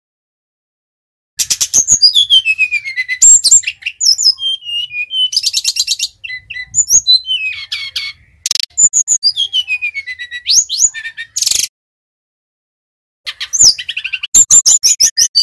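Brown-chested jungle flycatcher (sikatan rimba dada coklat) singing: rapid high trills mixed with slurred whistles that sweep downward. The song starts after a short silence, breaks off for over a second near the end, and starts again.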